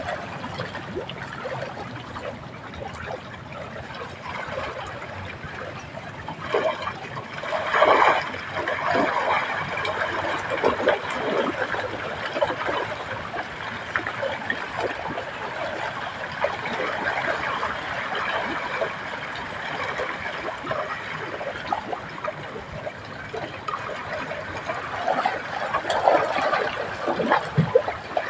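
Water trickling and splashing steadily, with a few louder splashes about seven or eight seconds in and again near the end.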